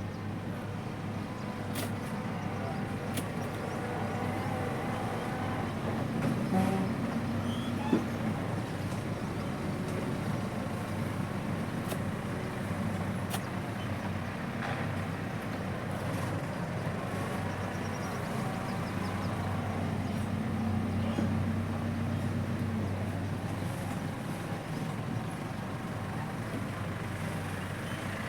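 A machine running steadily with a low, even hum, with faint voices and a few sharp clicks over it.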